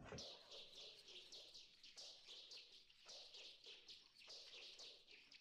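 Faint chirping of small songbirds: quick downward-sliding chirps, several a second, going on steadily. It is used as a quiet background beat in a cartoon soundtrack.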